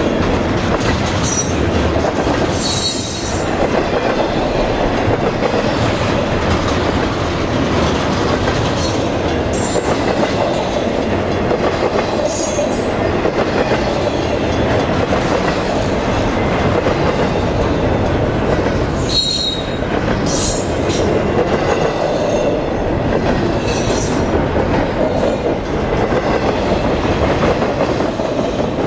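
Double-stack intermodal freight train of container well cars rolling past: a steady loud rumble of steel wheels on rail, with brief high-pitched wheel squeals several times.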